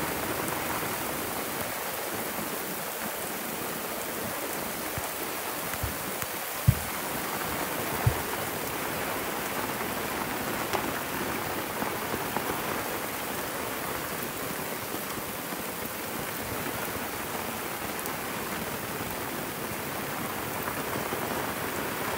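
Heavy tropical rain hitting the sea surface: a dense, steady hiss of countless raindrops on the water, really loud, with little wind. Two short knocks come about seven and eight seconds in.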